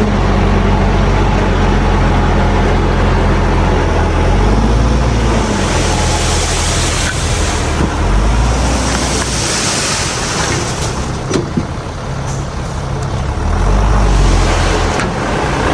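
Heavy diesel engines of earthmoving machinery running, the low engine note rising and falling with load. Two bursts of hissing air come about six and nine seconds in, like a truck's air brakes releasing.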